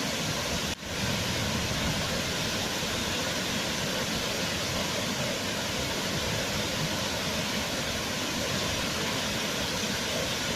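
Waterfall: water pouring and splashing in a steady, even rush, with a brief dip in level less than a second in.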